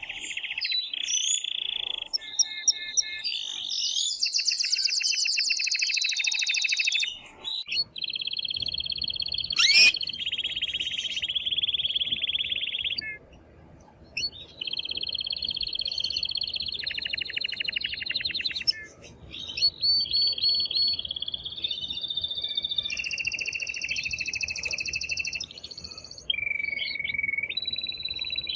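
Male canary singing a long, loud song of rapid trills and rolls. Each phrase is a string of fast repeated notes held for a few seconds before switching to another pitch, with brief pauses between some phrases. A single sharp click sounds a little under halfway through.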